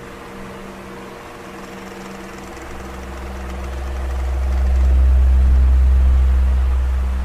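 Electric fan running, with a steady motor hum. A low rumble swells to its loudest about five seconds in, then fades.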